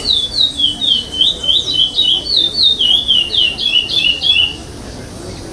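Curió (chestnut-bellied seed-finch) in brown plumage singing a fast, continuous run of short slurred whistled notes that stops about four and a half seconds in.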